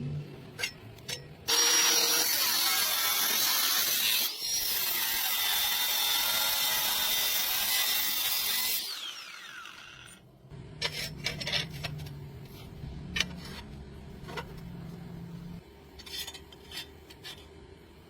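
Angle grinder running against steel for several seconds, with a brief break partway through, then winding down with a falling whine. Scattered light clicks and knocks follow over a low hum.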